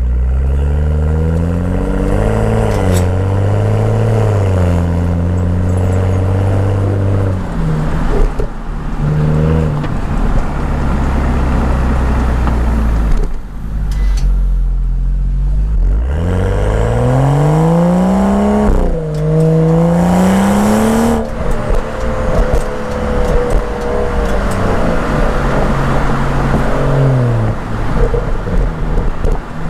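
BMW M235i's turbocharged straight-six exhaust, picked up close by an external microphone as the car is driven. The engine note climbs under acceleration, drops sharply at an upshift about two-thirds of the way in and climbs again, then settles into steadier running that falls away near the end.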